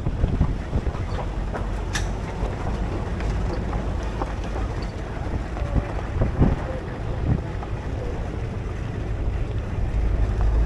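Tour shuttle vehicle running along with a steady low rumble and wind buffeting the microphone, with scattered knocks and rattles. A sharp click comes about two seconds in.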